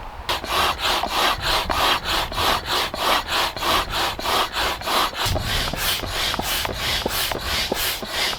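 Rhythmic scraping strokes of a tool working wood, about three or four a second, steady throughout.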